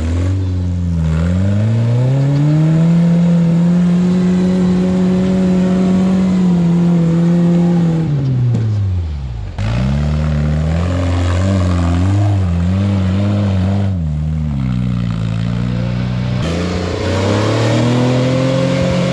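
Off-road rock crawler's engine revving hard under load. The revs climb over the first couple of seconds, hold high for about five seconds, then fall away. They waver up and down, settle lower, and climb again near the end.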